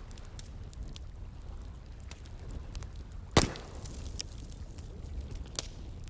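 Wood bonfire crackling with scattered small pops, and one loud sharp crack about halfway through, over the low steady rush of flowing water.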